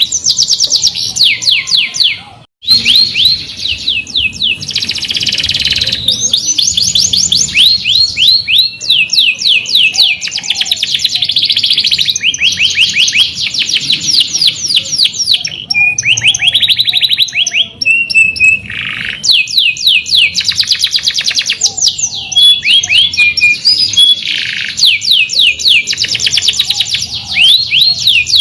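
Domestic canary singing a continuous rolling song: long runs of fast, evenly repeated trill notes, changing from one tour to the next. The song cuts out for a moment about two and a half seconds in and pauses briefly near the end of the second third.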